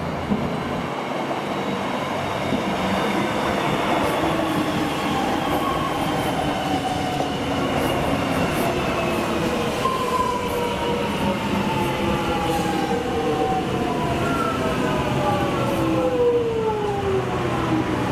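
Suburban electric train running through the station, its motor whine falling steadily in pitch as it slows, over a continuous rumble of wheels on the rails.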